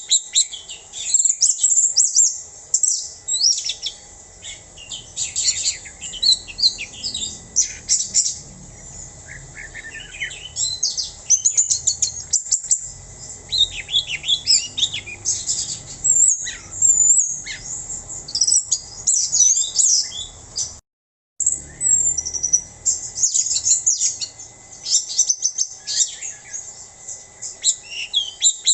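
Orange-headed thrush singing a fast, loud, continuous stream of varied high chirps, whistles and trills, in the heated non-stop 'mabuk' song state. The song cuts out completely for a moment about two-thirds of the way through, then resumes.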